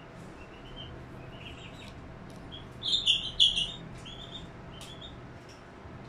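Small birds chirping: short high chirps come again and again, with a louder burst of calls about three seconds in.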